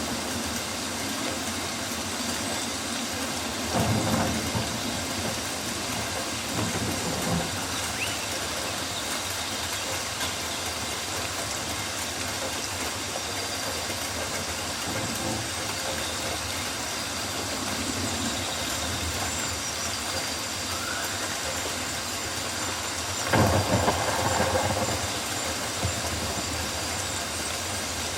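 Rainforest ambience: steady rain hiss, swelling louder about four seconds in and again for a couple of seconds near the end, with a couple of faint, brief rising whistles.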